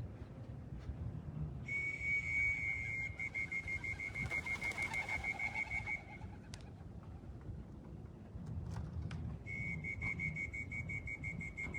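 High electronic beeping from a pigeon-race arrival timing system as birds trap in: a held tone that breaks into rapid beeps, about five a second, heard twice.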